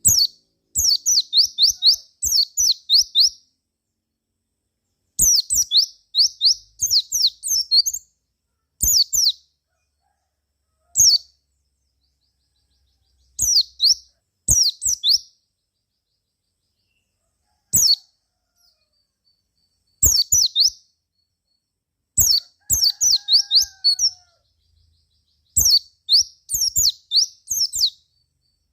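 White-eye (pleci) singing: short bursts of quick, high chirping notes, repeated about ten times with pauses of one to two seconds between bursts.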